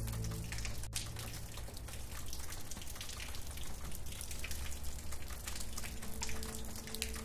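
Rain falling steadily, with many separate drops heard as small ticks over an even hiss. Soft held music tones fade out just after the start, and a faint held tone comes back near the end.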